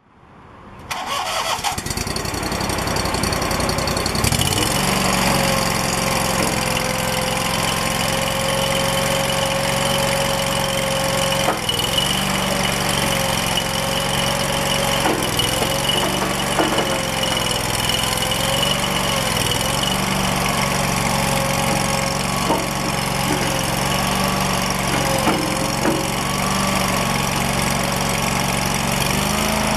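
2011 Toro Dingo TX427 walk-behind skid steer's engine being started: a noise rises about a second in and the engine catches about four seconds in, then it runs steadily, its speed dipping briefly several times.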